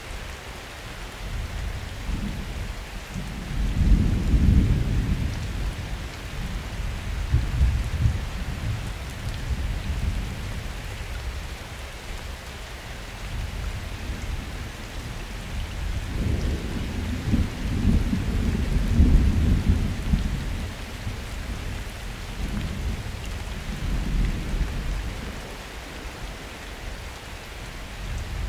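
Steady summer rain with thunder rumbling. A long roll of thunder swells about four seconds in, another builds from around sixteen to twenty seconds, and a smaller one follows near twenty-four seconds.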